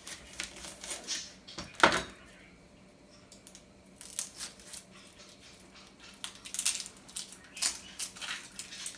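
Kitchen knife cutting an onion in half on a cutting board, with a sharp knock a little under two seconds in as the blade meets the board. After a quieter moment come many small clicks and rustles as the onion halves and their papery skin are handled.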